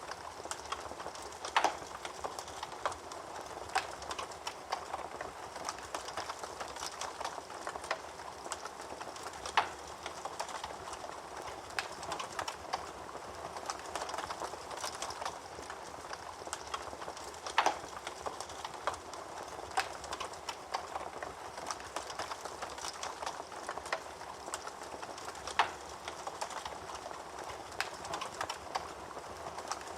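Wood fire burning in a fireplace, crackling steadily with many small snaps and a sharper, louder pop about every eight seconds.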